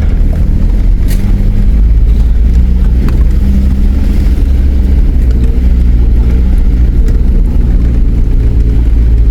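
Four-wheel drive's engine running steadily while driving, over a deep continuous rumble.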